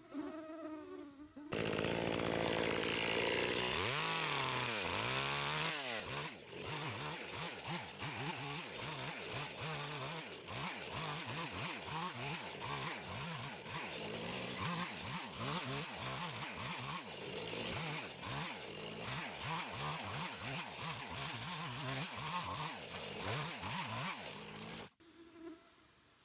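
A small engine running with a buzzing note. It starts abruptly about a second and a half in, revs up and down a few seconds later, then keeps running with a wavering pitch until it cuts off suddenly near the end.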